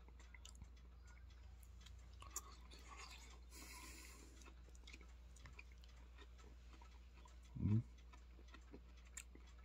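Quiet chewing of food, with faint clicks of a metal fork against a plastic bowl. About three-quarters of the way through there is a brief low hum of the voice.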